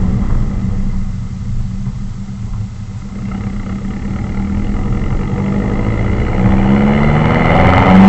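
Ford C-MAX engine through a straight-piped exhaust while driving. The note eases off and quietens early on, then climbs in pitch and grows loud as the car accelerates near the end.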